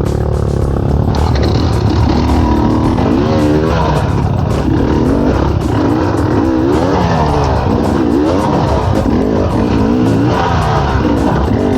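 Off-road dirt bike engine revving hard in repeated rising and falling bursts of throttle as it claws over rough ground, with background music underneath.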